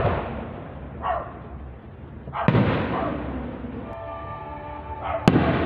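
Aerial fireworks shells bursting at a distance: two sharp bangs about three seconds apart, each followed by a long echoing rumble.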